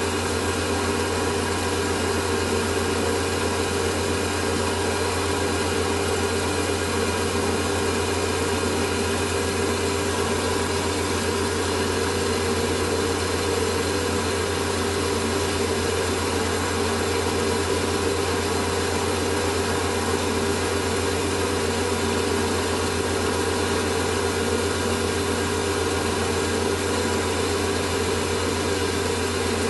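Lathe running steadily at fairly high speed with a constant hum, its spindle turning a small part on a mandrel for polishing.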